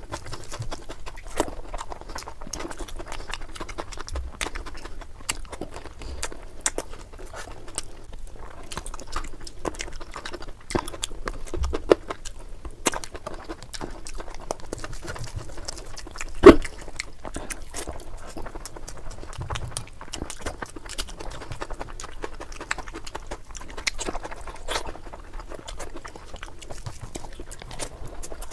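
Close-up eating sounds: a person chewing and smacking their lips, with a steady run of small wet clicks and one loud knock a little past halfway.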